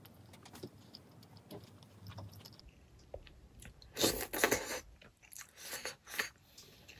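Close-miked mukbang eating sounds: a spoonful of food taken into the mouth and chewed, with faint clicks at first and the loudest chewing about four seconds in and again around six seconds.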